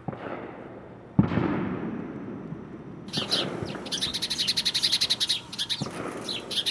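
Bird chirping: a fast, high run of chirps from about halfway in, about ten notes a second. It is led in by two sudden thumps with a fading rush, the second and louder one about a second in.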